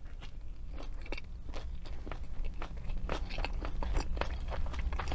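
Close-miked chewing of crunchy fried food: a string of small crunches and wet mouth clicks that come faster in the last couple of seconds.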